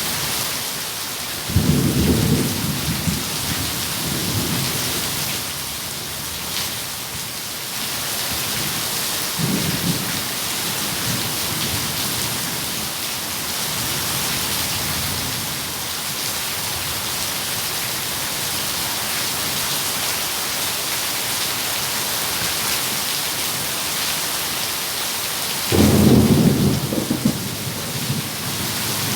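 Steady rain hissing, with thunder rolling in low: a sudden rumble about two seconds in, a fainter one about a third of the way through, and the loudest rumble near the end.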